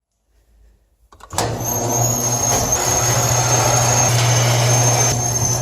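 A motor running steadily with a low hum and a thin high whine. It starts about a second in and fades out near the end.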